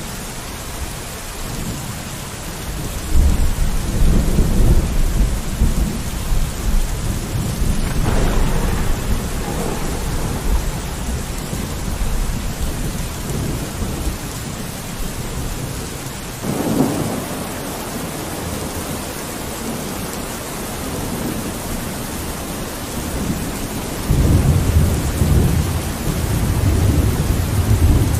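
Steady rain falling on a window, with thunder rolling: a long rumble a few seconds in, a shorter one soon after, a brief one past halfway, and another long rumble near the end.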